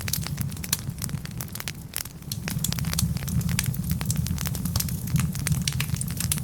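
Wood fire burning steadily, logs crackling with many sharp irregular pops over a low steady rumble of the flames.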